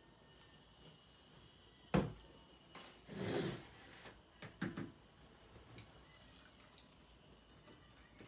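Bottle of Frank's hot sauce being used: a sharp click about two seconds in, then a few short splashy bursts as the sauce is shaken out.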